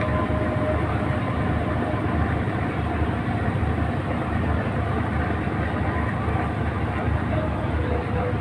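Boat engine running steadily, a loud, even mechanical rumble with a low throb.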